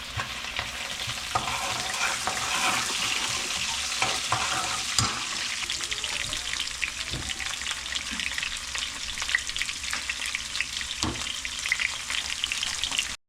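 Chicken frying in hot oil in a pan, sizzling steadily while a spatula stirs it, with scattered scrapes and clicks against the pan. The sound cuts off suddenly at the very end.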